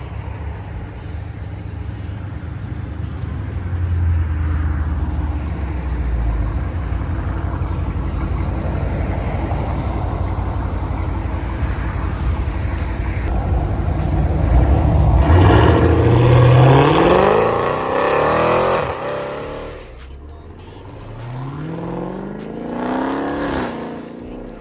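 Muscle car engine running with a steady low rumble, then revving up in rising sweeps about fifteen seconds in, falling away around twenty seconds, and rising once more near the end.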